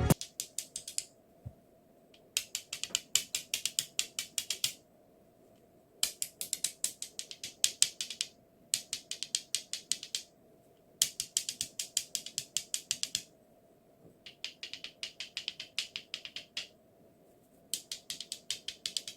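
Rapid, evenly spaced ratchet-like clicking in repeated bursts of one to two seconds, about seven bursts with short pauses between them.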